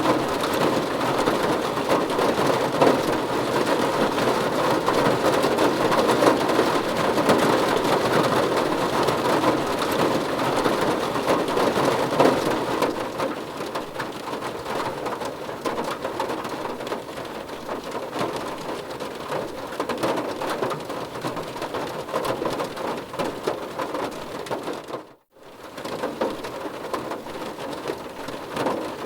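Steady heavy rain falling on a car's roof and windows, heard from inside the car. It eases a little about halfway through, and the sound cuts out completely for a split second near the end.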